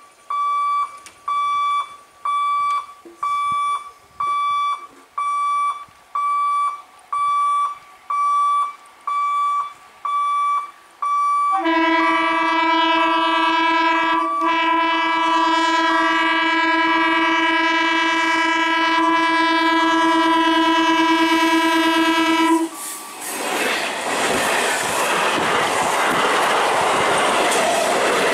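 A level-crossing warning beeper sounds in even pips, about one and a half a second, for roughly eleven seconds. Then the EMU local train's horn blows one long, held blast of about eleven seconds. Its final seconds bring a loud rush as the train's wheels and coaches run past over the crossing.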